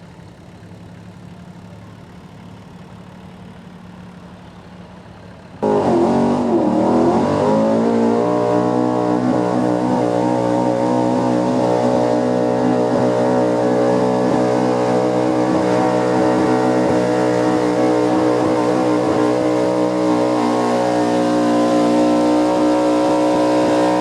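A truck-pull truck's engine rumbles quietly at first. About five seconds in it comes in loud, revs up, and is held at high, steady revs at full throttle while it pulls the sled.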